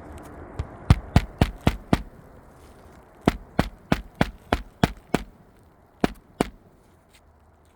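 Hammer driving roofing nails through a replacement asphalt shingle: a run of about six quick strikes, then a steady run of seven at about three a second, then two more.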